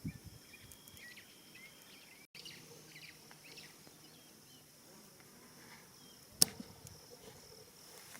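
Quiet savannah ambience at dusk: faint, scattered bird chirps over a steady high-pitched insect drone, with one sharp click about six seconds in.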